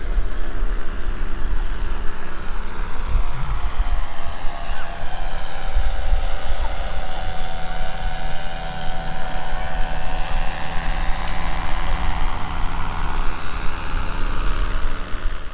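A motor running steadily under heavy wind buffeting on the microphone, as from a moving vehicle.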